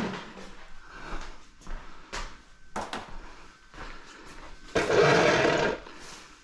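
Scattered clicks and knocks of scrap parts being handled, then a loud noisy burst lasting about a second near the end.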